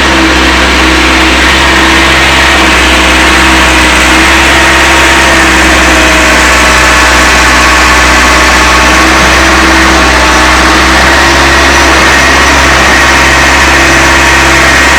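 Old CASE backhoe's diesel engine running steadily and loud, with slight rises and falls in pitch.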